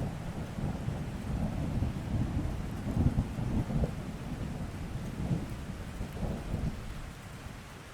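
Rain falling steadily, with a deep rumble underneath that swells and fades, loudest about three seconds in and easing off near the end.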